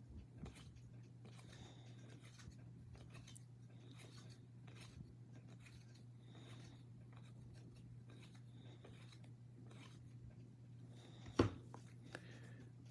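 Faint rustling and sliding of 2022 Topps baseball cards handled and flipped one by one, over a low steady hum, with one sharper click about eleven seconds in.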